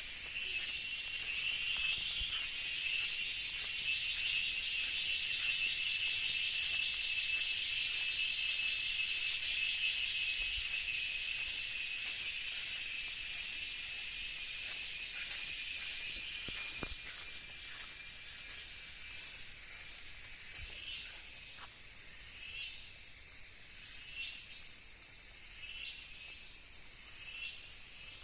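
Insects droning in a steady, high-pitched chorus that is loudest in the first half and then eases off. Over the last several seconds, short chirps repeat about every second and a half.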